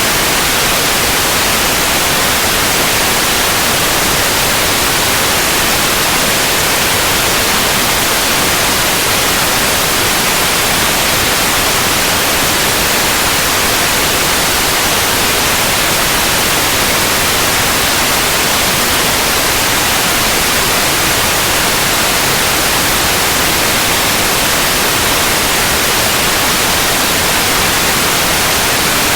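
Synthetic white noise: a steady, even hiss, loudest in the upper frequencies, with no change or event.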